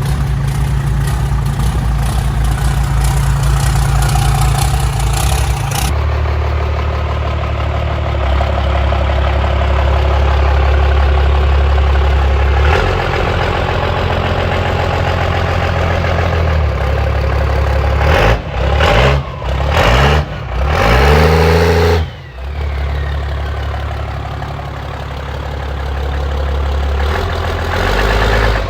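A vehicle engine running steadily, revved and let off several times about two-thirds of the way through, with its pitch sweeping up and down.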